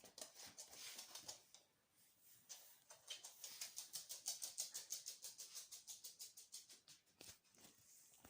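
Jack Russell terrier at work on a toy in a washing machine: a quick, even run of soft, high-pitched strokes, about six a second, building in the middle and easing off near the end.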